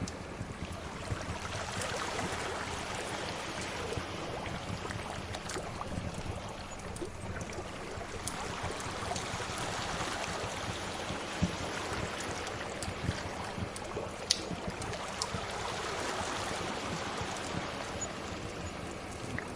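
Waves washing ashore in slow swells that rise and fall every several seconds, with a wood fire crackling throughout and a few sharper pops.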